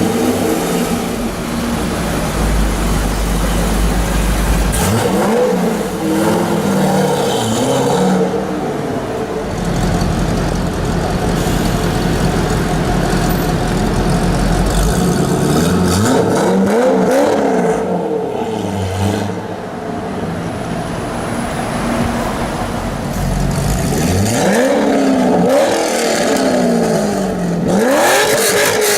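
Corvette V8 engine idling with a steady low rumble, revved in several groups of quick blips whose pitch rises and falls, settling back to idle between them.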